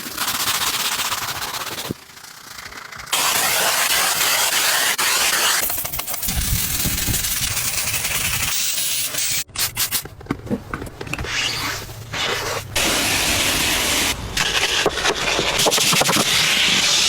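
Car-cleaning equipment running with a loud, steady hiss, in several short clips cut together, with the sound changing abruptly at each cut.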